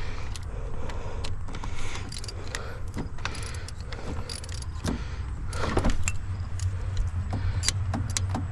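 Hand ratchet and metal tools clicking and clinking while the last bolt is worked loose in the engine bay of a Jeep 4.0 straight-six, irregular sharp clicks over a steady low hum.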